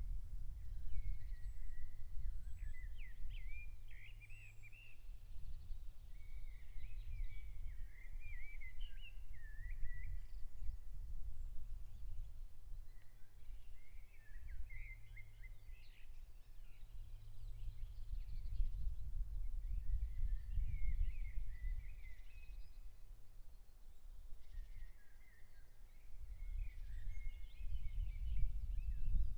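A songbird singing warbled phrases of two to four seconds, about five times with pauses between them, over a steady low rumbling noise.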